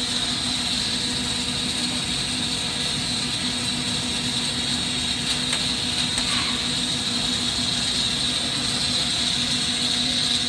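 Steady hiss of a propane-oxygen glassworking torch burning, with the overhead exhaust hood's fan running under it as a steady hum.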